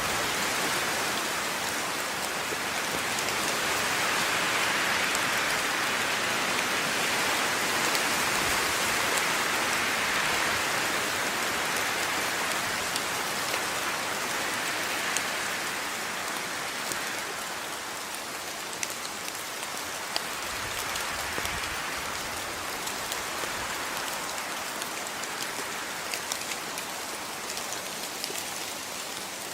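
Steady rain falling on a surface, a dense hiss of drops with scattered individual drip ticks, swelling a little in the first half and easing slightly toward the end.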